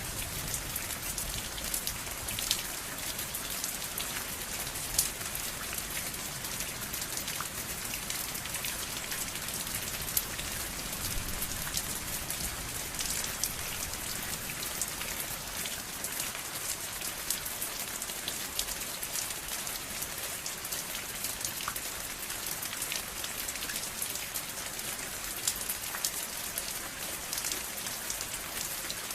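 Steady rain falling on a surface, an even hiss full of many small drop patters, with a few louder single drops here and there.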